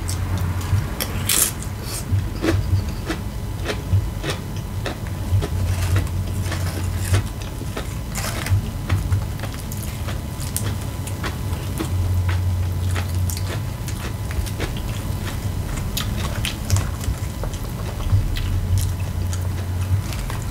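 Chewing a mouthful of taco salad and crunchy tortilla chips: irregular crisp crunches and bites.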